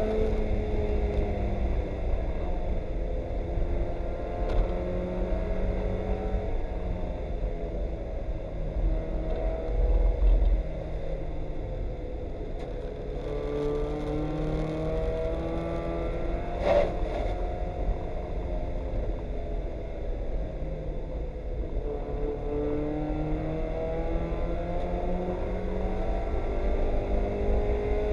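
Mazda Miata race car's four-cylinder engine heard from inside the cabin, its revs falling and rising again several times as the car brakes and accelerates through corners, over a steady background rush. One sharp click about two-thirds of the way in.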